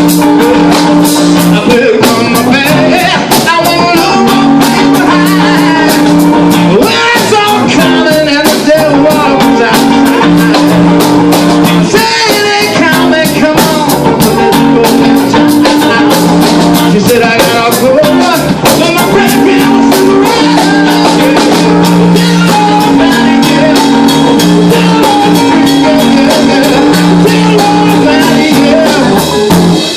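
Loud rock music: guitar and drums with singing.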